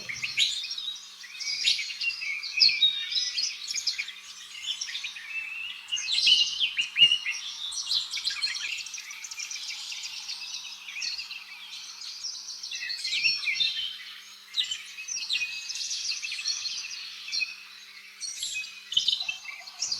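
Birds chirping and twittering: many quick, high calls overlapping without a break.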